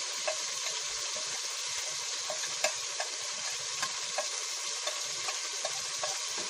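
Onion and tomato masala base sizzling steadily in hot oil as ground spices go in, with scattered small crackles and clicks.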